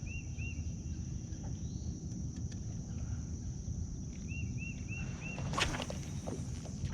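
Outdoor lakeside ambience: a steady low rumble under a steady high insect drone, with a bird giving short repeated chirps, two near the start and four more later. A sharp clatter stands out a little past five seconds.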